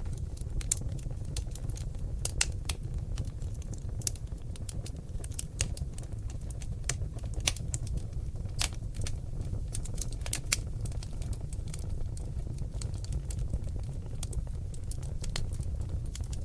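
Seasoned oak logs burning in a fireplace, crackling: irregular sharp pops and snaps over a steady low rumble of the flames.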